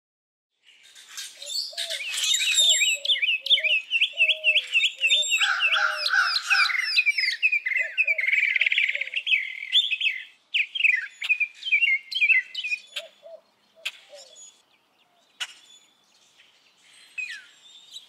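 A chorus of several songbirds chirping and trilling, with lower calls mixed in. It starts about a second in, is dense at first, and thins to scattered single chirps after about ten seconds.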